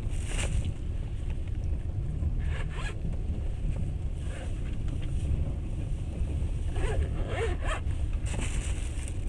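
Passenger train carriage running: a steady low rumble of wheels on rails, with a few short rasping sounds near the start, around three seconds in, and again around seven to eight seconds in.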